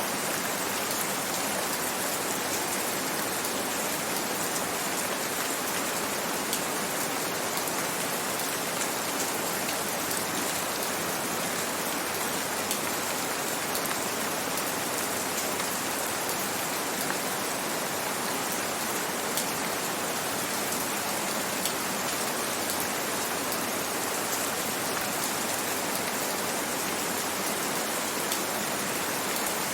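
Steady gentle rain: an even hiss with faint scattered ticks of individual drops.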